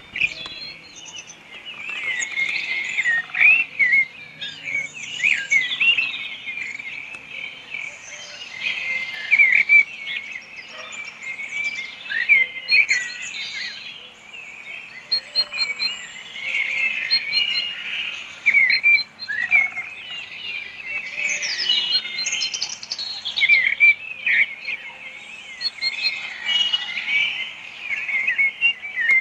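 Many small birds chirping and twittering at once, a dense run of quick overlapping high calls with occasional fast ticking trills.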